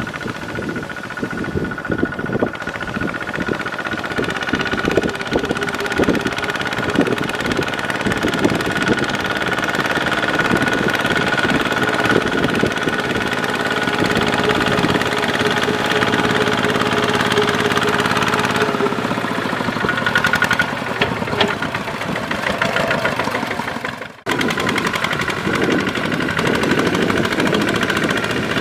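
Kubota ZT140 single-cylinder diesel engine of a tractor running steadily while plowing, with a knocking beat. The sound cuts out for an instant about 24 seconds in, then resumes.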